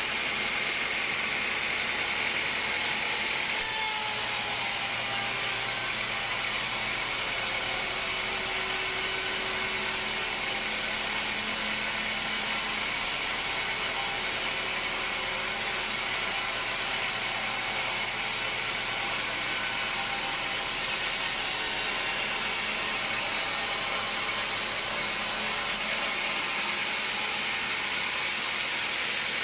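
Sawmill saw running and cutting through wood, a steady, even machine noise.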